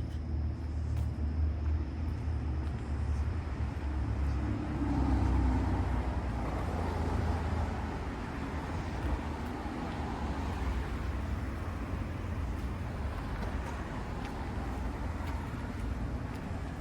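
Road traffic: a steady low rumble of vehicles, with one vehicle going past about five seconds in, swelling and then fading.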